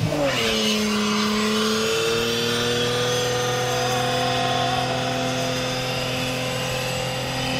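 Car engine revs drop sharply at the start, then the engine is held at steady high revs with the pitch creeping slightly upward.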